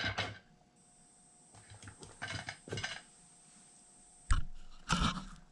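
Light metallic clinks and rattles of hand tools being handled, with a sharper knock about four seconds in.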